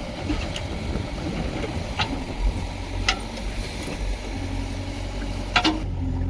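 Heavy diesel engine of a backhoe loader or tractor running, settling to a steady drone a little past halfway. Three sharp metallic knocks sound over it, about two seconds in, about three seconds in and near the end.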